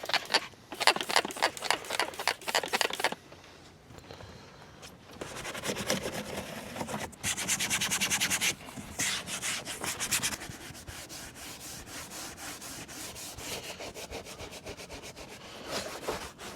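Detailing brush scrubbing back and forth in quick, repeated strokes, agitating sprayed-on cleaner on a truck's interior surfaces. The strokes come in two fast runs, then go on more lightly.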